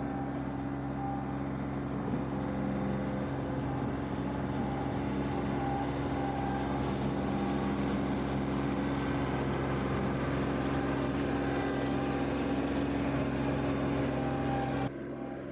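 John Deere 2038R compact tractor's diesel engine running steadily at working speed. The sound drops abruptly in level near the end.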